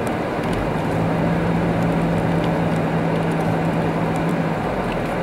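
Car driving slowly on a snow- and ice-covered road, heard from inside the cabin: steady tyre and road noise with the engine running, and a low steady hum that comes in about half a second in and stops near the end.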